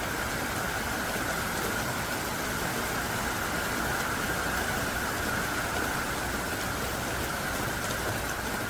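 Heavy downpour falling steadily: a dense, even hiss of rain.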